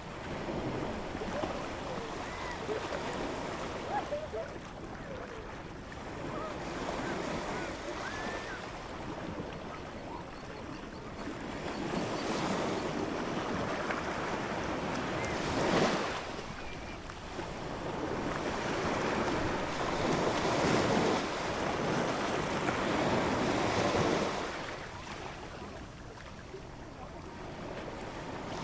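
Ocean waves breaking and washing ashore in slow surges, several swells building and falling off over a steady roar of surf.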